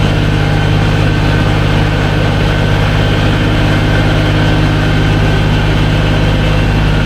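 A large engine idling steadily, its low hum unchanging.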